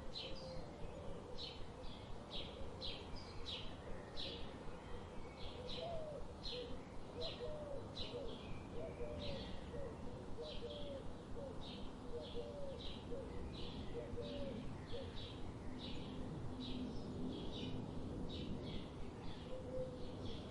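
Birds calling: short high chirps repeating about twice a second, with a run of lower, shorter call notes through the middle.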